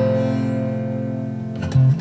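Background music on plucked guitar: a held chord rings and slowly fades, and a new note is plucked near the end.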